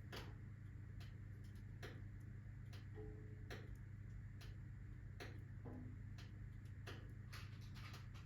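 Wood fire of alder, birch and oak logs crackling in a fireplace: sharp, irregular ticks and pops about once a second over a steady low hum.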